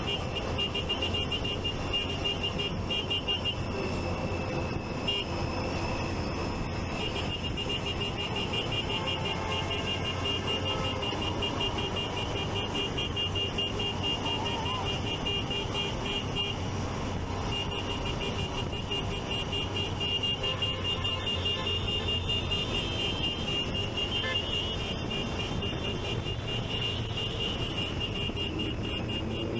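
A rapid, high-pitched electronic beeping, several pulses a second, keeps on with a short break just past halfway, over the steady hum of engines and traffic.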